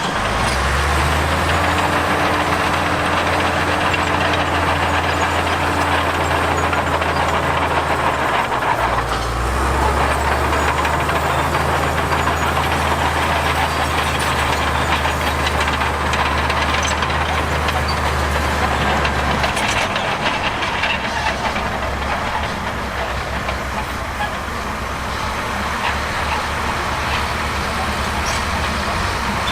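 Diesel engines of heavy construction machines working. A steady low engine note drops out briefly about a third of the way in, then gives way to rougher, uneven running after about two-thirds.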